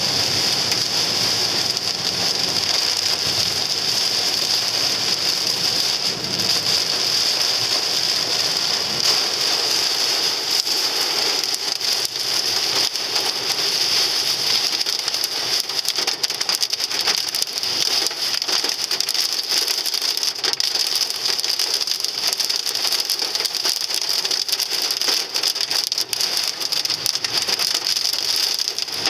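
Hail pelting the body of a Hyundai Sonata, heard from inside the car: a dense, steady clatter of impacts that does not let up, hard enough to dent the car.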